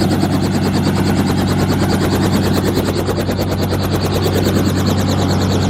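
Helicopter running on the ground close by: a steady engine and turbine hum under the fast, even chop of the rotor blades.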